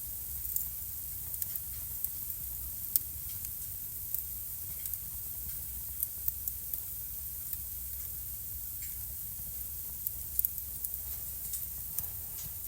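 Wood fire burning in a home fireplace, crackling with irregular sharp pops over a steady hiss and low rumble. A cluster of pops comes about ten seconds in.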